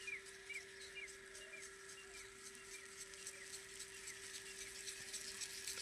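Faint outdoor morning ambience: a bird calling a run of short, falling chirps, about two a second for the first couple of seconds, over a faint steady hum.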